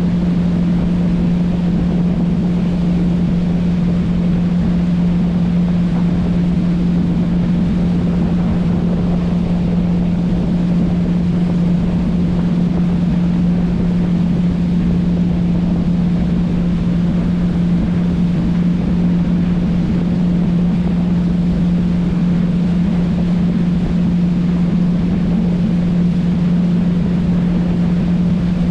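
Motorboat engine running at a constant speed: a steady drone that never changes pitch, over an even rushing noise.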